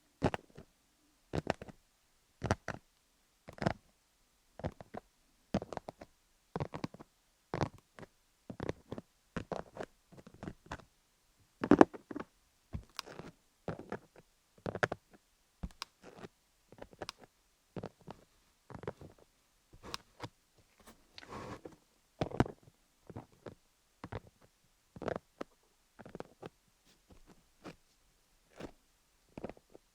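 Fingernails stroking and tapping on a dummy-head microphone studded with cubic rhinestone gems. Short, separate crackling strokes come about once a second at uneven intervals, and one stroke near the middle is louder than the rest.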